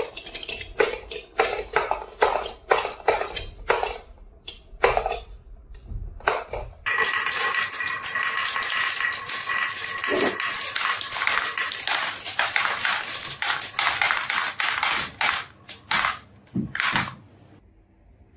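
Marbles clacking down a wooden marble run: a rapid series of sharp clicks and knocks. About seven seconds in, this gives way to a dense continuous rattle with a steady ringing tone, which stops suddenly near the end after a few last clicks.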